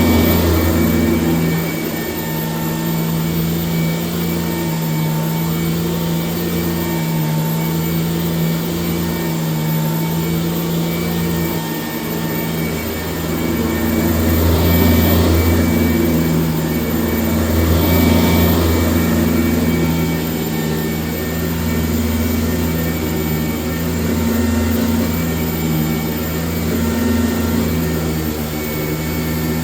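1996 Sanitaire S663 vacuum cleaner running steadily, a motor hum over a rush of air, growing a little louder twice in the middle stretch.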